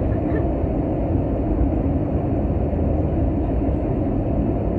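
Steady engine and airflow noise heard inside the cabin of an Airbus A320 in flight, a constant low rumble with no distinct events.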